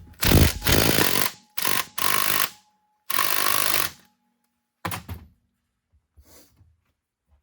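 Impact driver hammering on engine case screws in three bursts of about a second each, followed by a shorter clatter about five seconds in.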